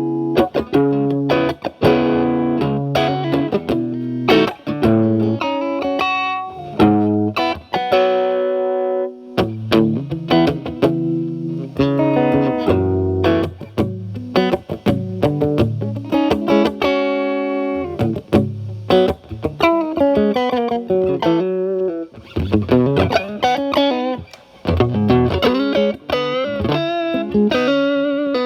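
Stratocaster electric guitar with single-coil pickups played through a Paul Cochrane Timmy transparent overdrive pedal, its gain set at about 12 o'clock, into a Marshall Valvestate amp's clean channel, giving a mildly overdriven tone. The guitar plays picked phrases of notes, with vibrato on held notes near the end.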